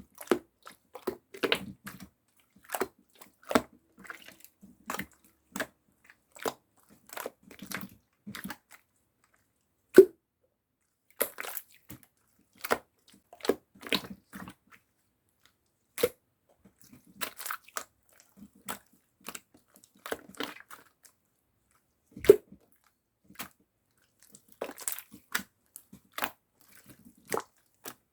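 Clear slime being pressed, poked and stretched by hand, giving irregular sharp sticky pops and clicks, some with a short wet squish, with brief silences between.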